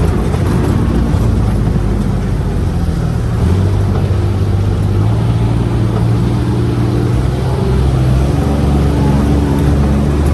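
Four-seat UTV's engine running under way, with a steady rumble from the ride. The engine note steps up a few seconds in and settles lower again about two-thirds of the way through.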